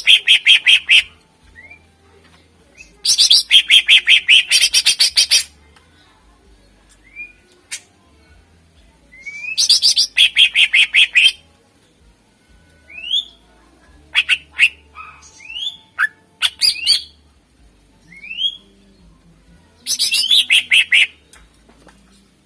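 Green leafbird (cucak ijo) singing loudly. Four bursts of rapid chattering notes, each lasting one to two seconds, alternate with single quick upward-sweeping whistles.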